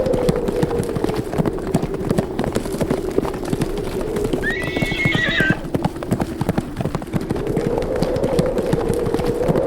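A group of horses galloping, with fast, continuous hoofbeats. One horse whinnies once, for about a second, near the middle. A wind that slowly rises and falls in pitch runs underneath.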